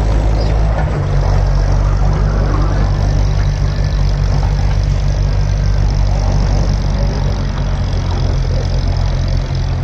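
Antique tractor engine running steadily at an even, low pitch, with no revving or change in speed.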